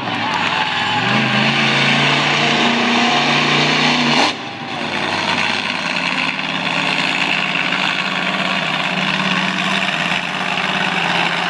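Monster truck engine revving hard, its pitch climbing over the first few seconds and breaking off sharply about four seconds in, then running on steadily at high throttle.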